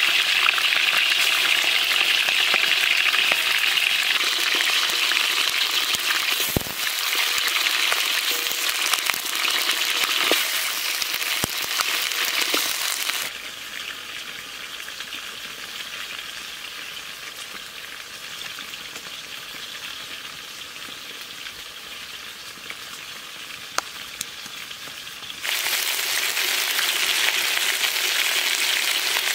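Raw chicken pieces sizzling as they fry in a large steel wok over a wood fire, with a few sharp clicks in the first half. The sizzle falls quieter for about twelve seconds in the middle, then comes back loud near the end.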